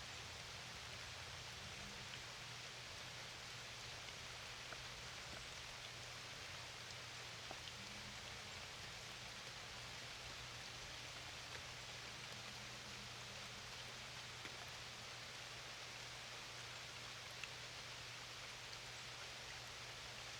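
Steady rain falling, with scattered single drops ticking, over a faint low steady hum.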